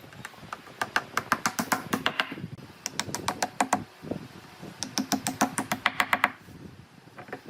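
Three quick runs of sharp knocks or taps on wood, about ten a second, each lasting a second or so.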